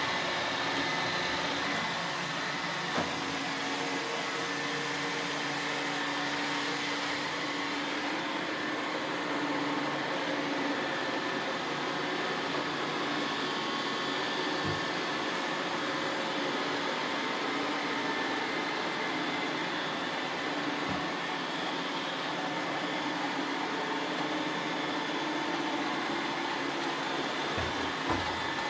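Roomba robot vacuums running: a steady hum of motors and brushes with a whine, and a few brief low knocks.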